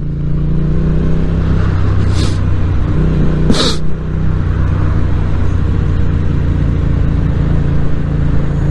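Yamaha MT-07's 689 cc parallel-twin engine running at steady cruising revs under way, with a rush of wind noise. Two short hissing bursts come about two and three and a half seconds in.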